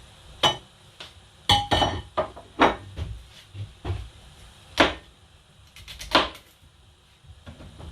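Cookware and utensils knocking and clinking: about a dozen sharp, irregular hits, some with a short ring. The loudest come about half a second in and near five and six seconds.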